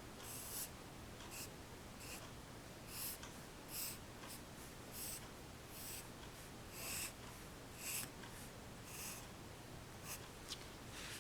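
Pencil strokes scratching on paper while sketching: a series of short strokes, roughly two a second at uneven spacing, some louder than others.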